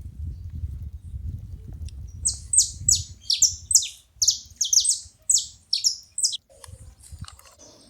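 Saffron finch calling: a rapid series of about a dozen sharp, down-slurred chips over some four seconds, with a low rumble under the first part.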